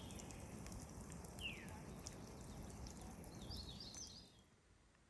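Faint outdoor ambience: a low, steady background noise with a few short bird chirps, one falling chirp about a second and a half in and a quick cluster near four seconds. It drops to near silence after about four seconds.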